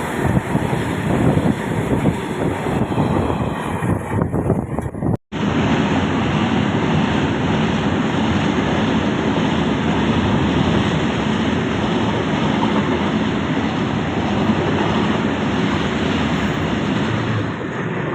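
Passenger train running, a steady loud rumble and rush of noise that breaks off for an instant about five seconds in.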